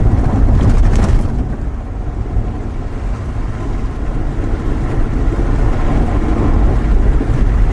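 Vehicle driving: steady engine and road rumble, heard from inside the cab, with a brief crackle about a second in.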